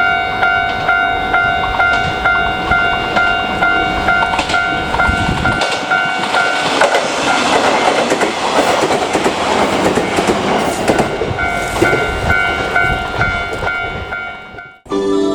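Railway level-crossing alarm ringing in a steady rhythm of about two dings a second. For several seconds midway it is drowned by a passing train's rumble and wheel clatter. The alarm then resumes and cuts off just before the end, as music begins.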